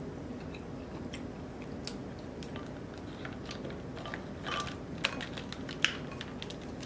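Close-miked chewing and lip smacking on snow crab meat, with scattered small clicks and crackles of crab shell being handled. The louder clicks come about five to six seconds in, over a faint low hum.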